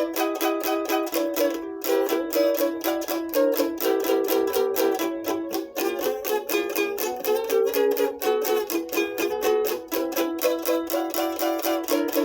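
Instrumental break of a song: a small plucked string instrument strummed in a quick, steady rhythm, with no singing.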